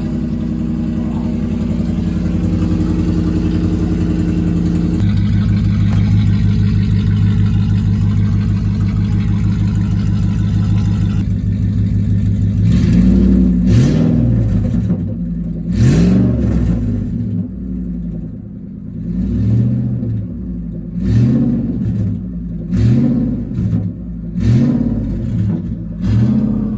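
Dodge 4.7L Magnum V8 running straight-piped, its muffler cut off and only the catalytic converters left in the exhaust. It idles steadily after starting, the idle changing pitch about five seconds in. From about 13 seconds in it is revved in a run of short throttle blips, each rising and falling, about one every one and a half to two seconds.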